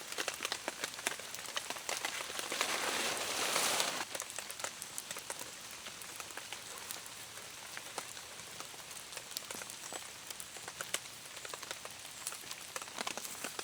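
Rain falling on a surface: a steady hiss scattered with the ticks of separate drops, swelling louder for about a second and a half around three seconds in.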